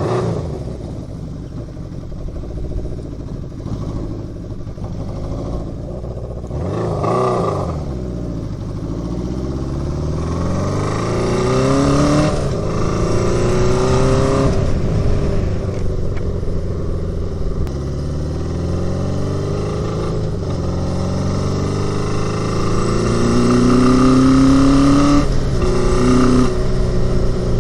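1981 Honda CB750's inline-four engine pulling the bike along on the road. Its pitch climbs and then drops back several times as it accelerates through the gears. It runs cleanly, not too badly for a bike that has sat all winter.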